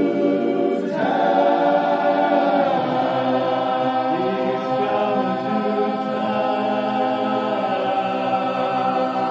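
Barbershop ensemble singing a cappella in close four-part harmony, holding the song's final chord. The chord shifts about a second in, then is sustained while a lower voice moves beneath it.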